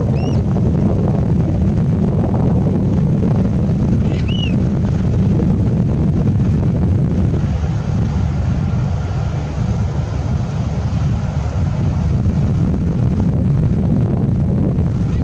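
Fishing boat's engine running steadily under heavy wind buffeting the microphone, a constant low rumble. Two short high chirps sound about four seconds apart.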